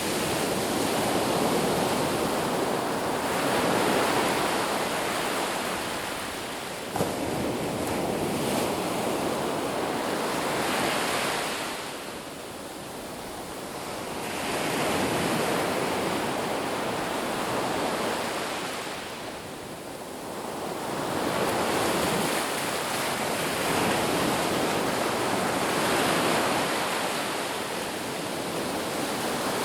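Ocean surf on a beach: waves breaking and washing in a continuous rush that swells and eases in slow surges several seconds apart.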